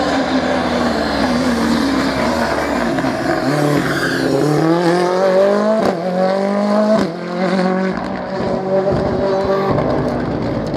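Rally car engine at full throttle, its note climbing steeply from about three seconds in. There are two sharp breaks, around six and seven seconds, then a steadier high-revving note.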